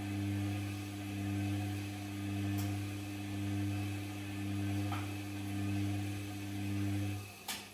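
Gorenje PS 1008 BM washing machine giving a steady electrical hum that slowly swells and fades. The hum cuts off near the end, followed by a single click.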